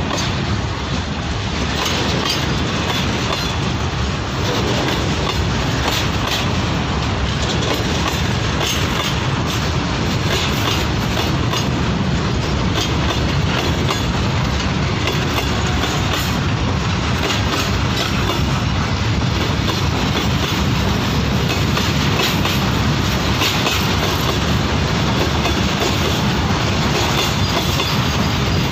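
Long goods train of covered boxcar wagons rolling past close by: a steady loud rumble of wheels on rail, with quick clicking as the wheels run over the track.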